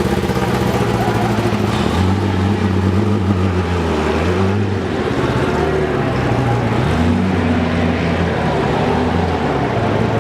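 Race car engines running hard past the track, their engine notes rising and falling several times as the cars accelerate, shift and pass.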